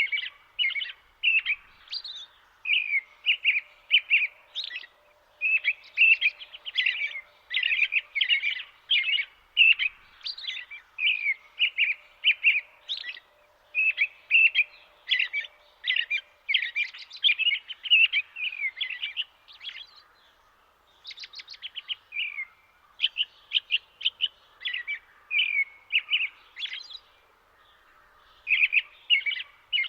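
Birds chirping in a dense run of short, high calls, several a second, with a brief lull about twenty seconds in.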